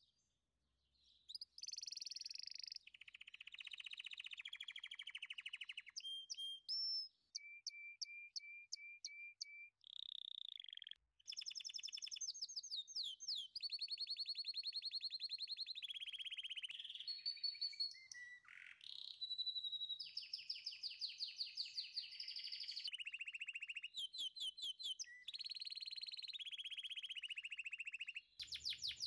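Songbird singing: high-pitched rapid chirps and trills, with sudden breaks and short pauses.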